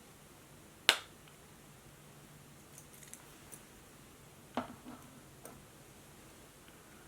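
Scattered clicks and taps from working at a desk with a laptop and notebook: one sharp click about a second in, a few faint ticks, then a duller knock with small rattles after it just past the middle, over a low steady hum.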